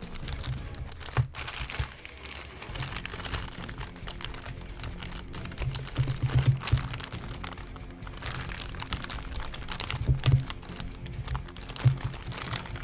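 Plastic packaging of a boxed figure crinkling and rustling while it is handled, with scattered clicks and knocks, over background music.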